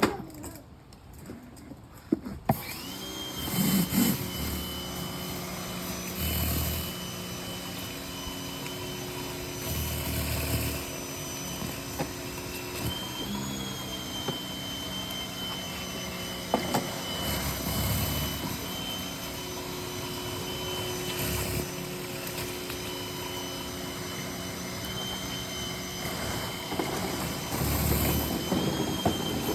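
Pressure washer starting about two seconds in, then running steadily with a high whine, its spray hissing through a Surface Maxx rotary surface cleaner on concrete. Louder surges come every few seconds.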